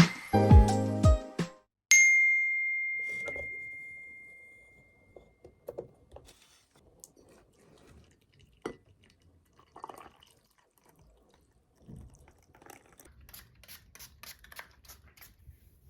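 Background music ends; then a single clear ding, like a small bell or a glass being struck, rings out and fades over a couple of seconds. After it come faint scattered clicks and taps of small objects being handled.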